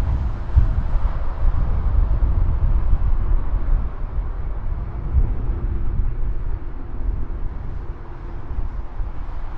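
Low rumble of a jet airliner's engines at a distance, slowly fading, with wind buffeting the microphone.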